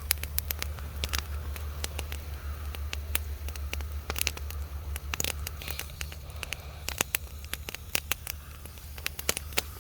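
Bonfire of Christmas trees crackling, with many irregular sharp pops over a steady low rumble.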